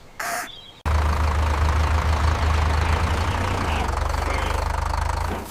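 Tractor engine running with a steady low rumble, starting abruptly about a second in.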